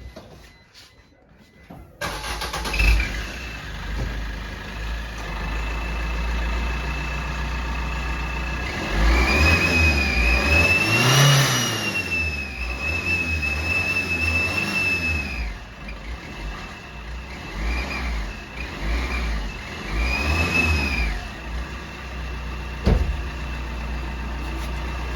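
An engine starts about two seconds in and runs, and an exhaust-mounted turbo whistle sounds with it: a long high whistle whose pitch rises and falls with the revs, then several short whistles as the throttle is blipped. A single sharp knock comes near the end.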